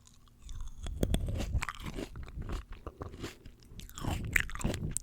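Close-miked crisp bites into fresh fruit and wet crunchy chewing, starting about half a second in after a brief quiet moment.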